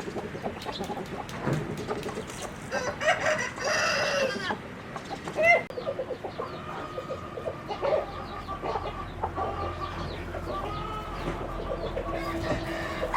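A flock of chickens clucking and calling in many short notes, with one longer rooster crow about three seconds in.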